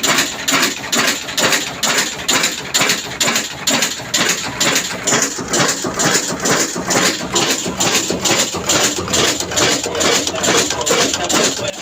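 Lahore-made Ruston-type diesel engine running at a steady slow speed, an even, rhythmic beat of sharp knocks at about two and a half a second.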